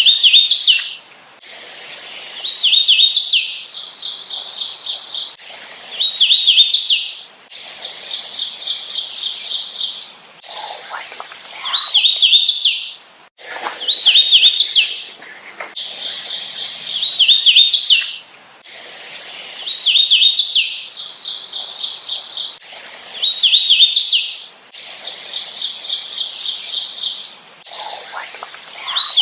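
Hooded warbler singing its song over and over, about every three to four seconds. Each song is a run of clear, evenly repeated whistled notes ending in a quick, higher slurred flourish.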